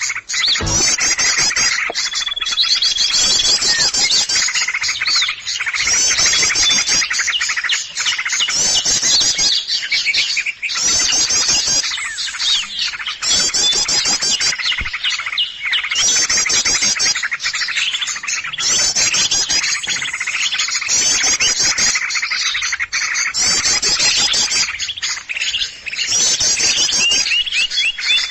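A noisy chorus of many small songbirds chirping and twittering rapidly and high-pitched, with no let-up: a bird-lure recording played to draw small wild birds in for trapping. The same chirping phrases come round again and again, like a loop.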